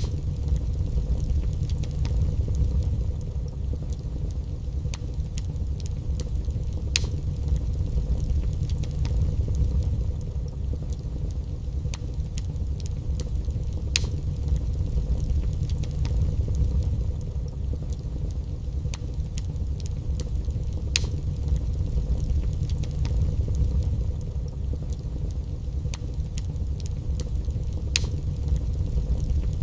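Wood fire burning in a fireplace: a steady low rumble with scattered sharp crackles and pops, a few louder pops every several seconds.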